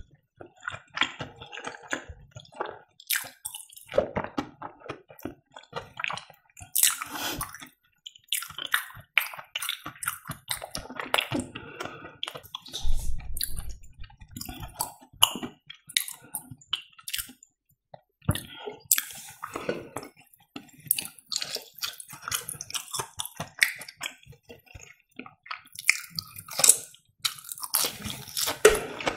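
Close-miked chewing of breaded fried cheese: irregular crisp clicks and mouth sounds with short pauses.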